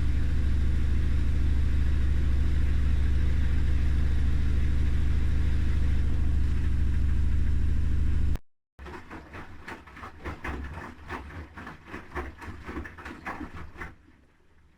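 Haier I-Pro Series 7 front-loading washing machine with its drum spinning fast, a loud, steady, deep hum. It stops suddenly at a cut, and then come softer, irregular knocks and rustles of laundry tumbling in the slowly turning drum.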